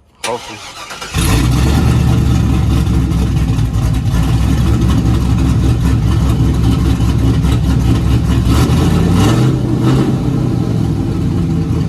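Pickup truck cranked over and catching after about a second, then running loud through an exhaust that dumps down under the truck, with no tailpipes run to the back. The engine speed rises and falls a little, picking up briefly near the end.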